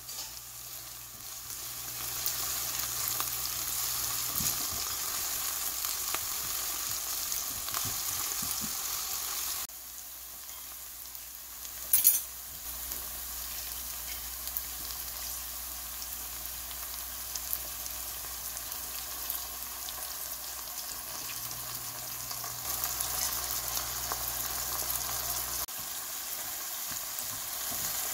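Chopped leeks frying in oil in a non-stick pan: a steady sizzle with stirring, which carries on after soy sauce is spooned in. A brief loud sharp sound stands out about twelve seconds in.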